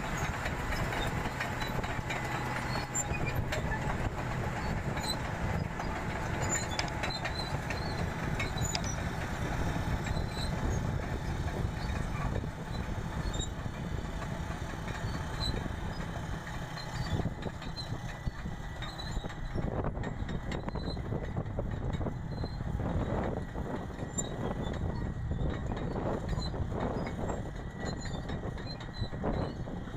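Engine of a farm machine running steadily, with most of its sound low down; the higher part of the sound thins out about two-thirds of the way through.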